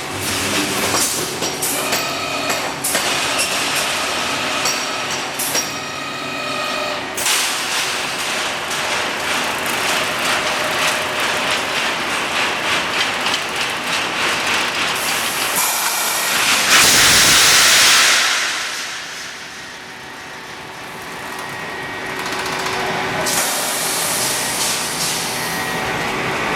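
Pneumatic rebar mesh welding machine running: a dense, rapid clatter of the welding heads and wire feed, with a steady machine hum. Partway through, a loud hiss of compressed air released for over a second, after which the machine noise is briefly quieter.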